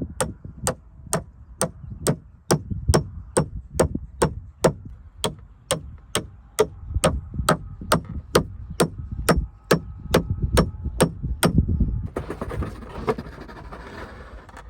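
Hand hammering on timber: a steady run of about two dozen sharp blows, about two a second, that stops near the end. A rough rustling, scraping noise follows.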